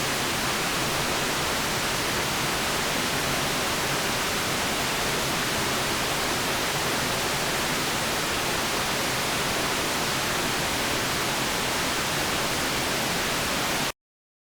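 Steady white noise: an even, unchanging hiss across the whole range of pitch, cutting off abruptly to silence shortly before the end.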